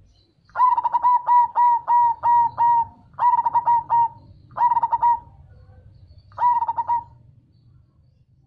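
Zebra dove (perkutut) singing its clipped, rhythmic cooing song in four phrases. The first is a run of about eight quick coos, followed by three shorter groups of three or four.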